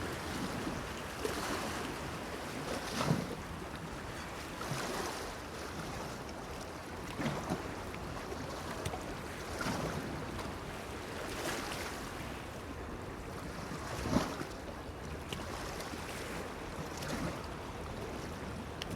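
Small sea waves lapping and splashing against a stone pier, in irregular surges every second or two, with two louder splashes: one near the start and one about two-thirds through.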